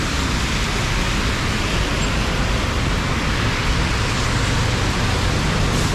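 Heavy rain falling, a steady hiss, over the low rumble of passing road traffic.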